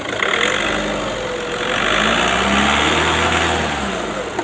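Skoda Rapid's engine being revved under an open bonnet, its pitch climbing near the start and again about halfway through, then easing back toward idle near the end.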